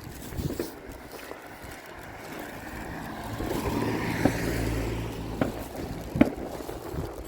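Distant fireworks going off: a few sharp bangs and cracks, the loudest three in the second half, over wind on the microphone and a low rumble that swells and fades in the middle.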